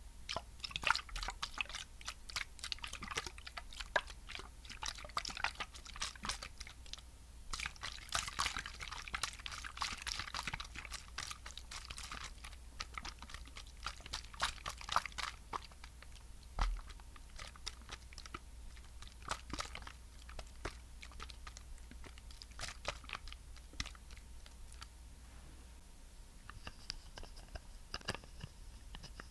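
Close-miked ASMR skincare sounds: a dense run of small sticky, wet crackles and clicks, busiest over the first half and thinning out later.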